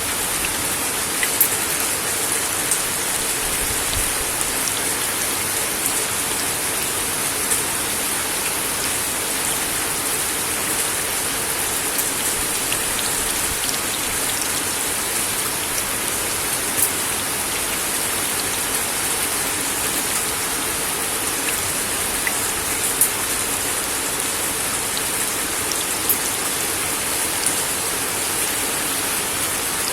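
Steady rain falling on a wooden deck, an even hiss with the sharper taps of single drops standing out now and then.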